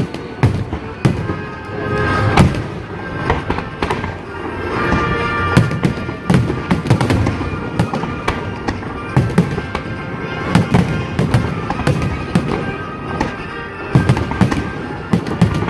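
Fireworks shells bursting in quick succession, many sharp bangs through the whole stretch, with music playing along.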